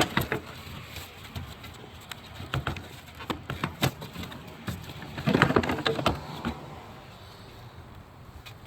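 Scattered clicks and knocks of plastic air-intake parts being unclipped and handled, with a busier stretch of rattling and knocking about five to six seconds in.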